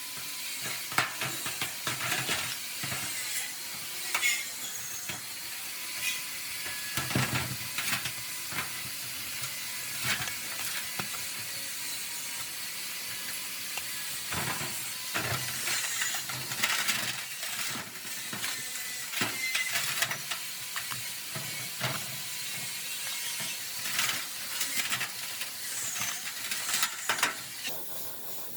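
Workshop restoration work on metal machine parts: a steady hiss with irregular clicks and knocks of tools and parts.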